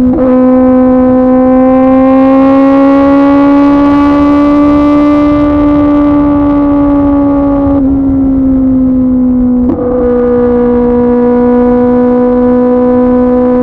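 A 2024 Kawasaki ZX-10R's inline-four engine through an SC-Project CRT exhaust, running at high revs under steady throttle. Its pitch rises slowly over the first few seconds, eases down about eight seconds in, dips briefly near ten seconds, then holds steady.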